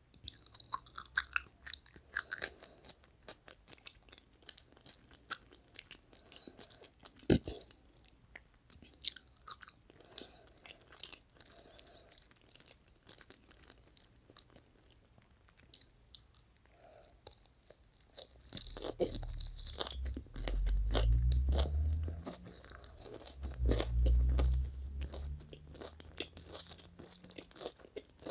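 Close-miked chewing and crunching of a toasted sausage sandwich, with many crisp mouth clicks and crackles and one sharp crunch about seven seconds in. A loud low rumble comes in about two-thirds of the way through and lasts several seconds.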